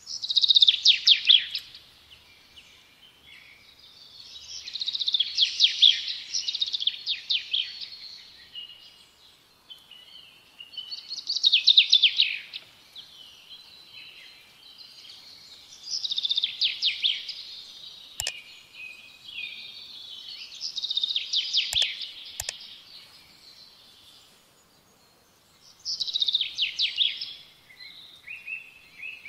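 Songbird singing: about six phrases of rapid high trills and quick falling notes, one every five seconds or so, with softer chirps between them. A few sharp clicks fall in the middle.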